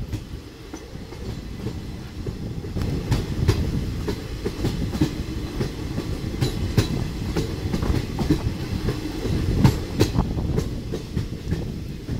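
Passenger train running, heard from the side of a moving coach: a steady low rumble of wheels on rail with irregular sharp clicks and knocks, some in pairs, as the wheels pass over rail joints.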